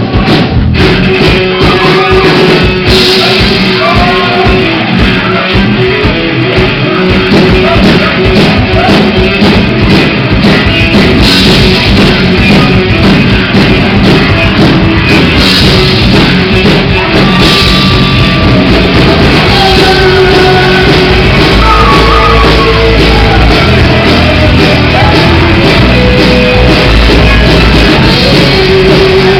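Rock band playing loudly, with shouted singing over guitar.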